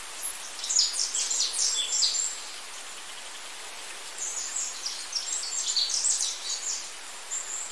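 Birds chirping in quick, high-pitched calls over a steady hiss of outdoor noise, with a short lull in the chirping about halfway through.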